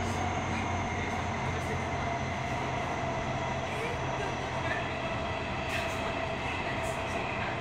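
Running noise heard inside a Toyo Rapid Railway 2000 series train car as it travels between stations: a steady rumble of wheels on rail with a low hum that fades a few seconds in.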